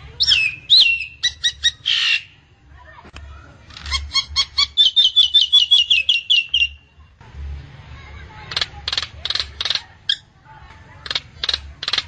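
Nias hill myna calling: whistled notes with falling sweeps, then a fast run of repeated notes, then a string of short harsh calls, over a faint low hum.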